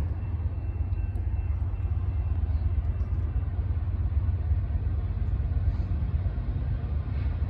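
Freight train approaching on the line: a steady low rumble with no horn or distinct strikes.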